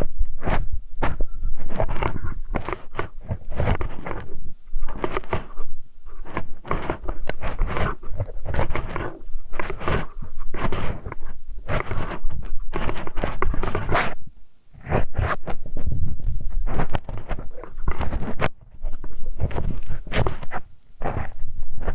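A hex wrench (Allen key) scraping, rubbing and knocking against a binaural microphone's ear in close-up, in irregular strokes that come thick and fast, with brief pauses about two-thirds of the way through and again a little later.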